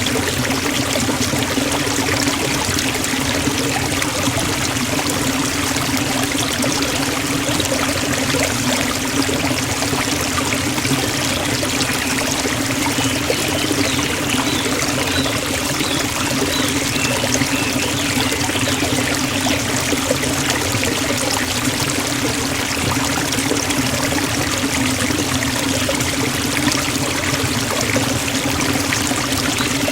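Waterfall: falling water rushing and splashing in a steady, unbroken stream.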